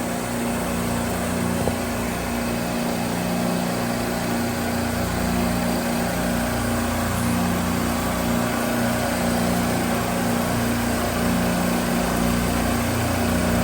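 Steady mechanical hum of the running refrigeration compressors in a supermarket compressor rack, with a low tone that wavers slightly.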